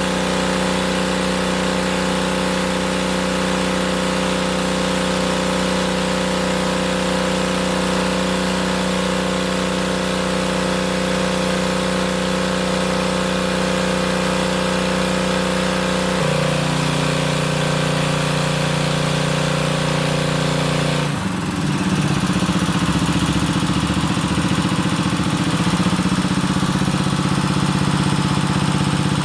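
A motor or engine running steadily with a humming note. The note steps down slightly about 16 seconds in, and the sound turns rougher about 21 seconds in.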